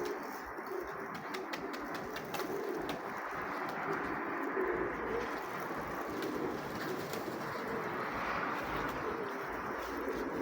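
Nikolaev pigeons cooing, low repeated coos one after another.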